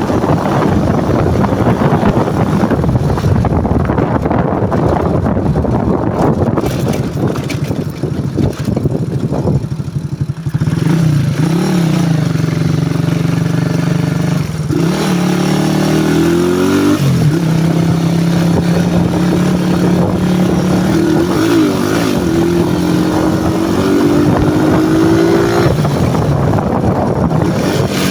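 CG-type single-cylinder motorcycle engine and exhaust running under way. For about the first ten seconds, wind rush on the microphone covers it. After that the engine note comes through steady, its pitch dipping and climbing a few times with changes in speed.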